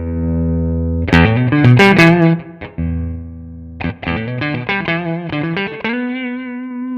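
Electric guitar played through an amp model on a Nux MG300 with some overdrive: a held chord, a fast run of picked notes from about a second in, more picked notes, then a single note left ringing near the end.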